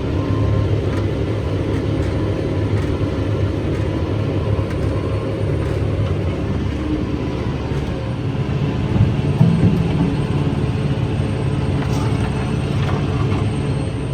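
Kubota M7-172 tractor's diesel engine and the pull-type New Holland FP230 forage harvester running steadily under load, heard from inside the tractor cab, with a brief swell in loudness about nine seconds in.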